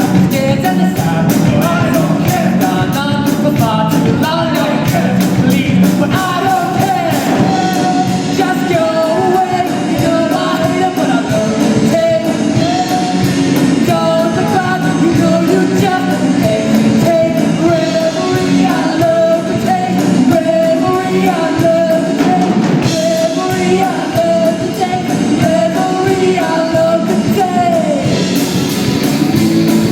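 A school rock band playing live: a male lead singer over electric guitars and a drum kit with a steady beat.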